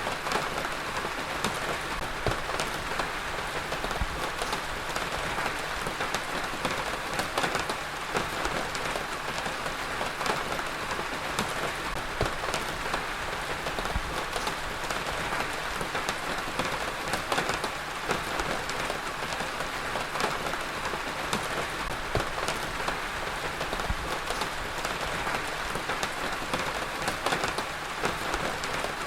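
Heavy rain falling steadily, an even hiss with dense, close drop impacts ticking on a surface.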